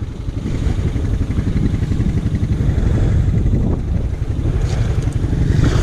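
Off-road vehicle engine running at a steady low speed, a continuous low rumble with wind buffeting the microphone.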